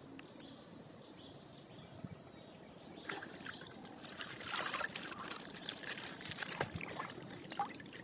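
Faint crinkling and rustling of a plastic wrapper being handled and torn open, with small irregular clicks, starting about three seconds in.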